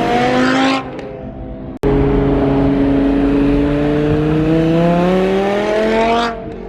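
A performance car's engine accelerating, its pitch climbing steadily. The sound cuts off abruptly about two seconds in, then a second, longer pull of about four seconds climbs again before the engine eases off near the end.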